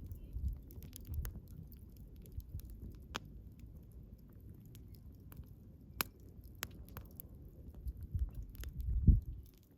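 Wood campfire burning, with a low flutter from the flames and scattered sharp crackles and pops, a few of them standing out. A louder low surge comes near the end.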